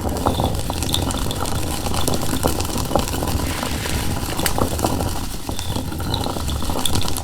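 Hand-turned stone quern grinding: a steady low rumble of stone rolling on stone, with scattered crackles of dried pulses being split.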